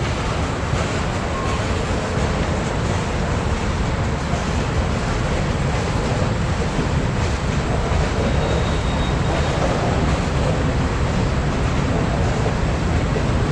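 Freight train cars rolling past, a steady loud rumble and rush of wheels on rail.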